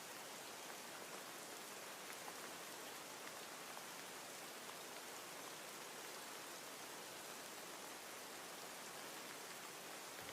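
Steady rain, an even patter with faint scattered drop ticks, as a quiet continuous rain ambience.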